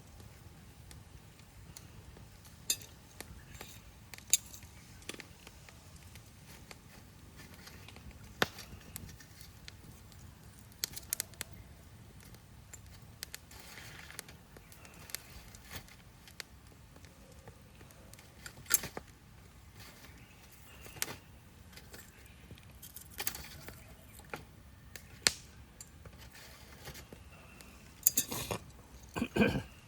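Wood fire crackling, with sharp pops at irregular intervals over a low steady hiss and a quick run of pops near the end.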